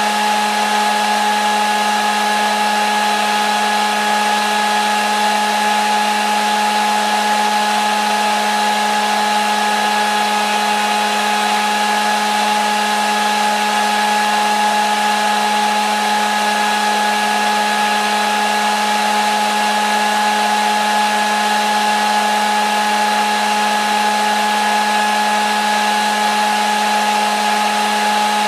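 Hair dryer running at a steady speed: an even rush of blown air with a low hum and a higher steady whine over it.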